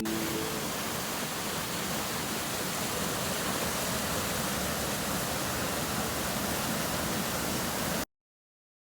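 Rushing water of a warm geothermal stream, a steady, even hiss that cuts off abruptly about eight seconds in.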